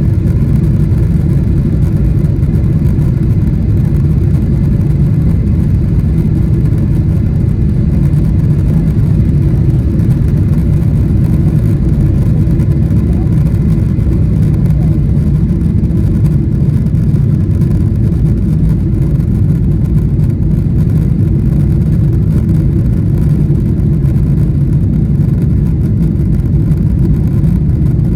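Boeing 777-300ER's GE90 jet engines at takeoff thrust: a loud, steady, low rumble that holds unchanged throughout.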